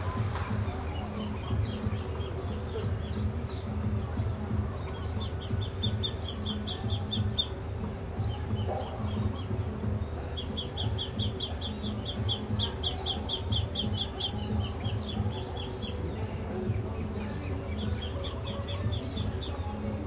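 Small birds chirping: rapid runs of short, high chirps, one about five seconds in and a longer one from about ten to fifteen seconds, with scattered single chirps, over a low steady rumble.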